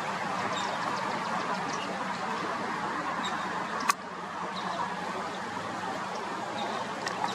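Steady outdoor background noise, like distant traffic, with a few faint short bird chirps and one sharp click about four seconds in.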